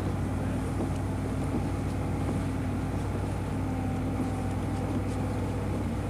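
Lifeboat launching tractor's diesel engine running steadily, a constant low hum with no change in speed.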